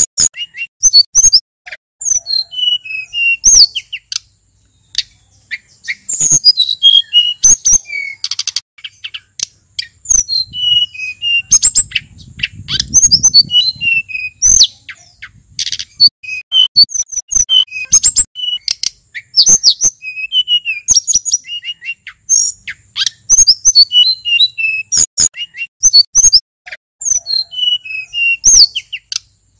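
Male sulingan gunung songbird singing: short varied phrases of high, quick whistled notes, many sweeping down in pitch, repeated every second or two.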